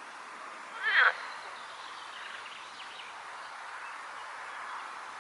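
Outdoor pond ambience: a steady hiss of wind, with one short, loud animal-like call about a second in and a few faint chirps after it.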